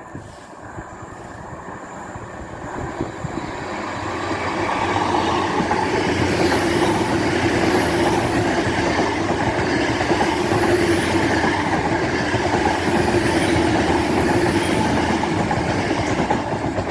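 LNER Class 800 express train passing through the station at speed. The sound builds over the first few seconds, then runs loud and steady for about ten seconds before easing off near the end.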